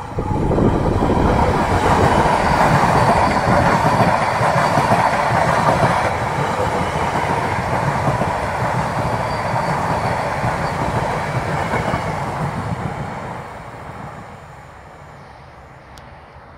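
Electric multiple-unit passenger train passing close by at speed: a loud rolling rumble of steel wheels on the rails, which fades away over the last few seconds as the train moves off.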